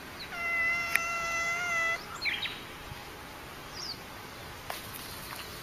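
A cat's single long, steady meow, followed by a few short high chirps.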